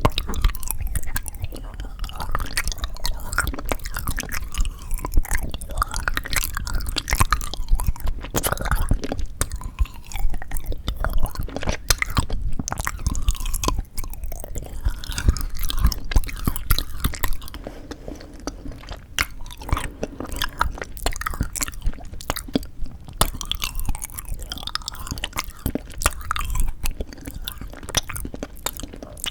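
Close-miked chewing and biting of frozen sweet red bean jelly (yanggaeng): a dense run of sharp clicks and crunches.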